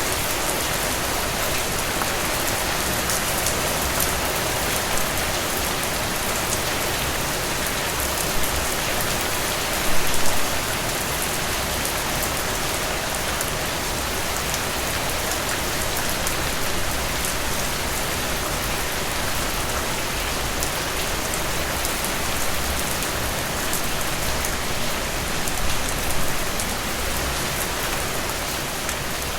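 Steady rain falling on a cabin roof, a dense even patter, with a few louder drop hits, the loudest about ten seconds in.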